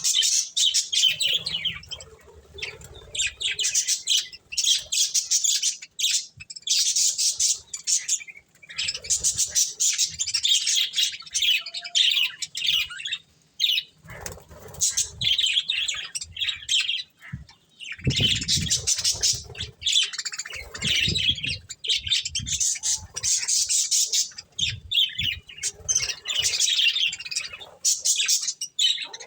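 Pet budgerigars chirping and chattering continuously in quick, high-pitched bursts, broken by a few brief pauses, with some low thumps a little past the middle.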